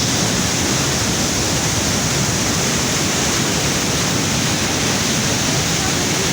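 Water rushing through a river barrage's gates: a loud, steady, unbroken rush.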